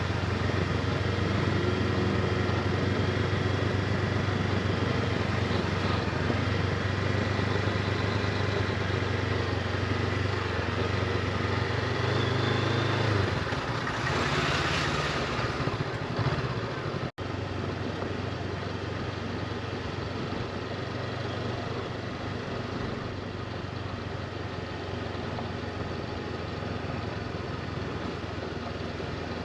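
Motorcycle engine running steadily under way, with road and wind noise. A louder rushing noise swells and fades a little past halfway, followed by an instant's dropout, after which the sound is slightly quieter.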